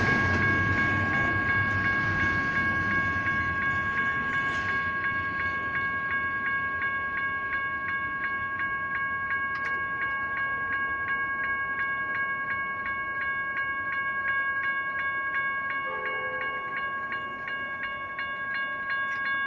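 Railroad crossing electronic bells (General Signals Type 1) ringing in a fast, steady repeated ding while the crossing is still active. The rumble of a passing train fades away over the first few seconds.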